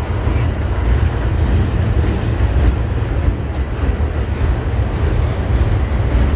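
Freight train of lumber-loaded flatcars and tank cars rolling past on the rails: a steady low rumble of wheels on track.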